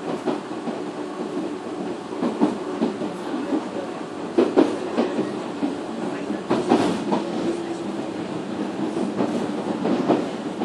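Nishitetsu 313-series electric railcar running at speed, heard from inside the car over its motor bogie: a steady running rumble with a low hum, and paired clacks from the wheels crossing rail joints about every two seconds.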